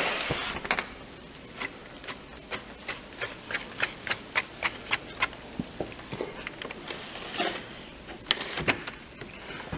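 Sleet pellets ticking against window glass: sharp, irregular clicks, roughly two or three a second, over a low hiss.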